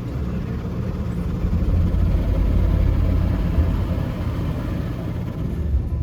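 Automatic car wash running over the car, heard from inside the cabin: a heavy low rumble with a steady hiss, swelling about a second and a half in.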